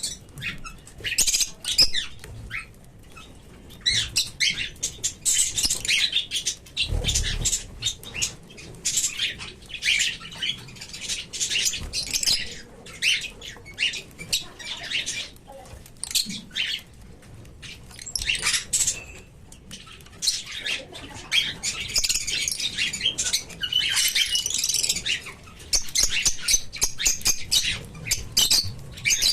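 Lovebird chattering: rapid high-pitched chirps and squeaks, in busy bursts with short pauses between them.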